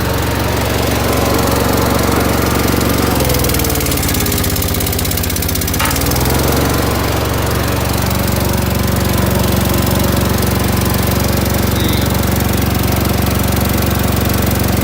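Boxer 530X mini skid steer engine running steadily. About three seconds in, the engine note sags for a few seconds and then comes back up, as it takes the load of the grapple's hydraulics.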